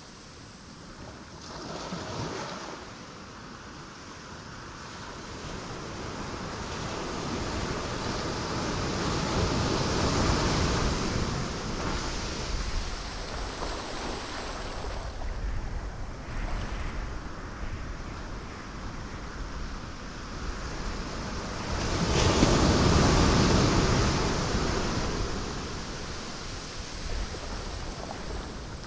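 Ocean waves breaking on rocks, a steady rushing surf that swells with each wave. The biggest wave crashes about two-thirds of the way through.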